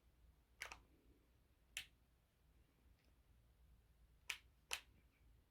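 Near silence broken by four short, sharp clicks: one a little after half a second in, one near two seconds, and a close pair a little after four seconds.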